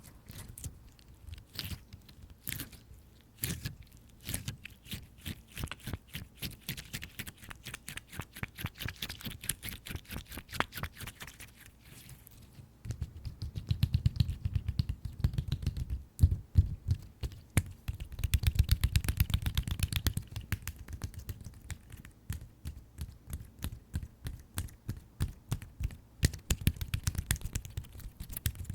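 Fingers tapping quickly on tapioca-bead slime, a run of short squishy taps several times a second. Two stretches in the middle are louder and heavier.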